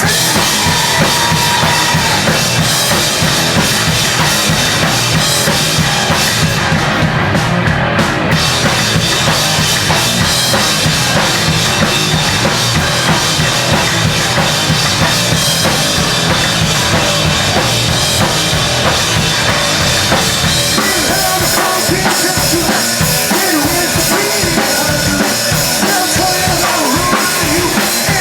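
A live post-hardcore band playing loudly, with the drum kit to the fore: kick and snare hits driving under the full band.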